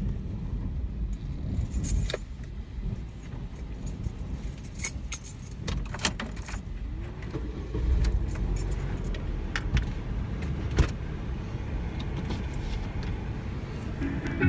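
Gusty wind buffeting the microphone, a low rumble that rises and falls, with scattered sharp clicks and ticks throughout.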